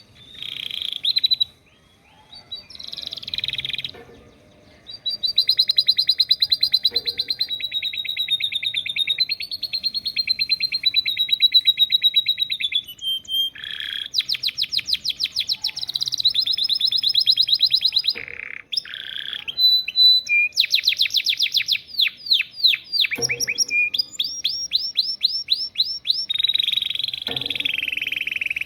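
Canary singing a long song with lovebird-style phrases learned as fill-in (isian): long high trills, runs of fast repeated notes and quick falling sweeps, broken by a few short pauses.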